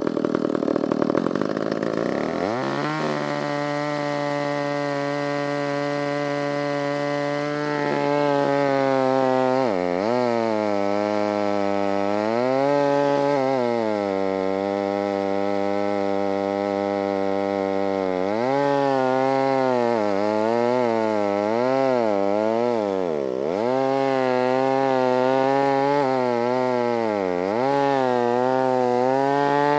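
Stihl 056 two-stroke chainsaw running hard in a cut through dead elm, its engine note dipping and recovering again and again as the saw bogs under load, with the deepest dip about three-quarters of the way through. The first couple of seconds are a rougher noise before the engine note settles.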